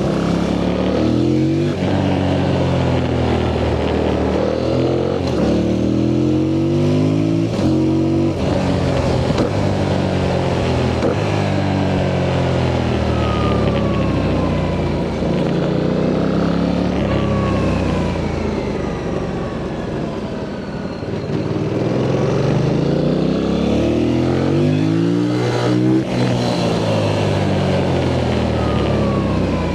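Yamaha MT-07's CP2 parallel-twin engine through its stock exhaust, accelerating through the gears: the pitch climbs and drops back at each upshift, again and again. It backs off briefly a little past the middle, then pulls through the gears again.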